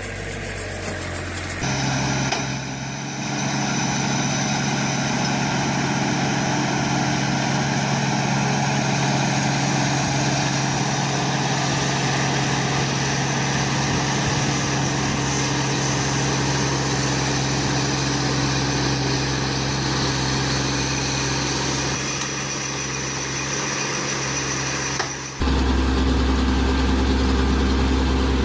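Tractor engine running steadily under farm work. The sound changes abruptly about two seconds in, and again near the end, where a deeper engine takes over.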